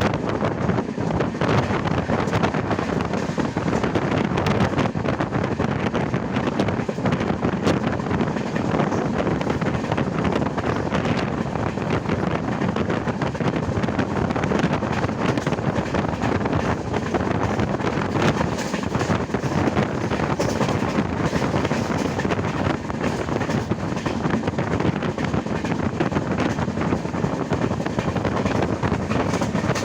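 Indian Railways passenger train running at speed: a steady rumble of wheels on the rails, with wind buffeting the microphone.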